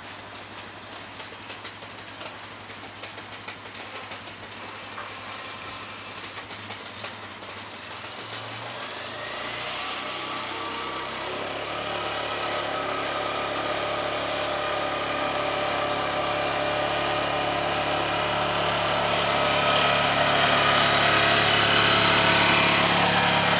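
An ATV engine coming closer, growing steadily louder from about a third of the way in. Before that there are only scattered light clicks.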